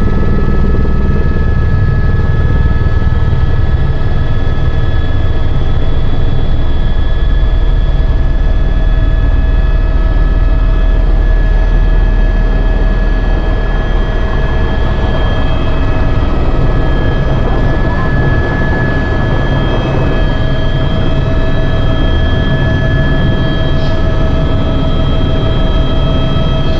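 Helicopter running steadily: a loud, even drone strongest in the low end, with several steady high tones held over it.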